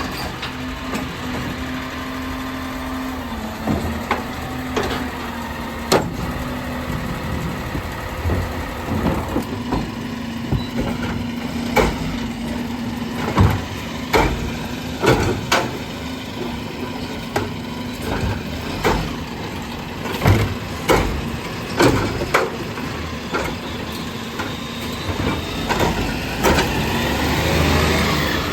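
Garbage truck running with a steady engine hum, with a string of sharp knocks and clunks through the middle, and a swell in engine or hydraulic sound near the end.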